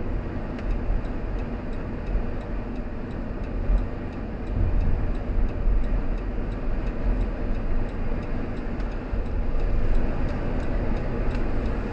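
Car turn signal clicking steadily, about two clicks a second, over a steady low road and engine rumble.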